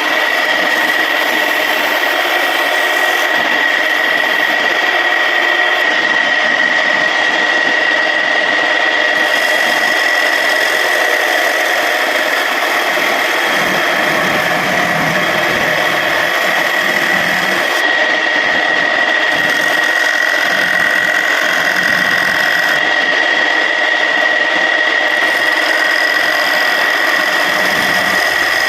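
Homemade wood lathe running with a steady high whine, a tool scraping against the spinning surian wood workpiece.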